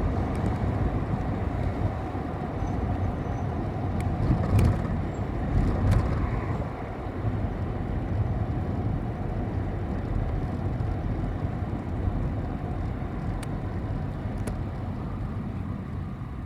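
City bus running along the road, heard from inside the passenger cabin: a steady engine and road rumble with a few sharp clicks and rattles. It swells louder about four and a half and six seconds in, then eases a little.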